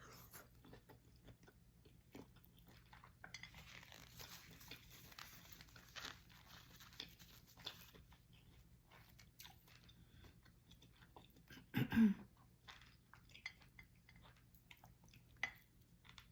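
Close-up eating of a seafood boil: chewing and crunching with many small clicks. There is a denser rustling, crackling stretch a few seconds in and one louder knock about twelve seconds in.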